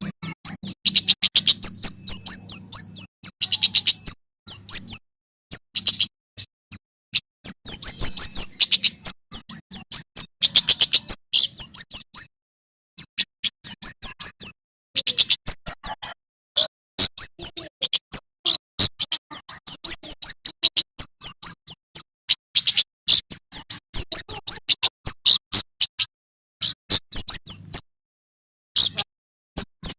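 Male prenjak keres (kemade jawa) singing in the wild: fast strings of sharp, high, repeated chirps, broken by brief pauses about halfway through and near the end.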